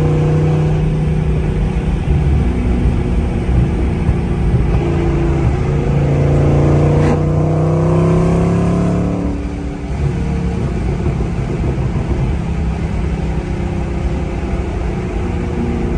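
New Edge Ford Mustang V8 heard from inside the cabin while driving. The engine note holds steady, then climbs in pitch from about four seconds in as the car accelerates, drops suddenly near ten seconds, and settles back into a steady cruise.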